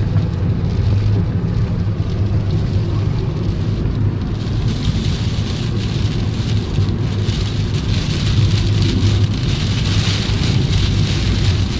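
Heavy rain pelting a car, over a steady low rumble; the rain grows heavier about four seconds in.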